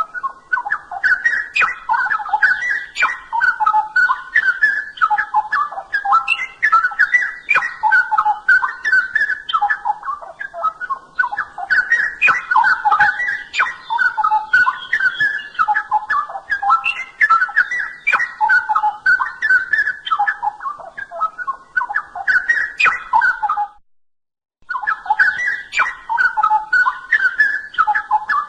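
Straw-headed bulbul (cucak rowo) singing a continuous song of rapid whistled notes. It cuts off for about a second near the end, then resumes.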